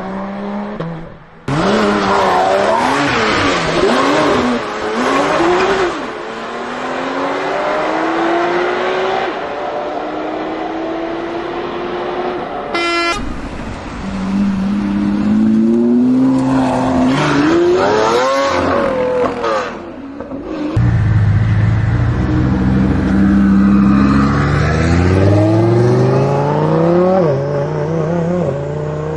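Supercar engines revving and accelerating hard, the engine note climbing through the gears and dropping at each shift. Several separate runs are cut together, with sudden changes in the sound between them.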